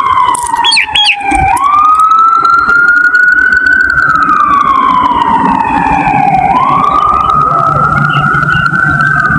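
A wailing siren that slowly rises and falls in pitch, each swell lasting about five seconds, with a few short chirps about a second in.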